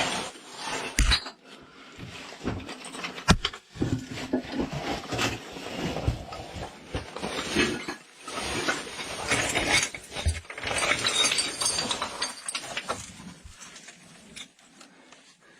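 Scraping, rustling and knocking of a caver squeezing through a tight rock crack, with body and gear rubbing on rock and a couple of sharp knocks early on.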